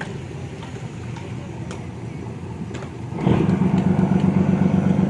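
A fishing boat's diesel engine running low and steady, then throttled up about three seconds in to a much louder, steady drone, as the boat is manoeuvred into its berth.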